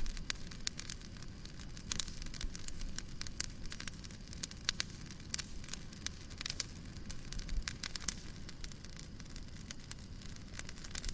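Wood fire crackling, with frequent irregular pops and snaps over a soft low rumble of the flames.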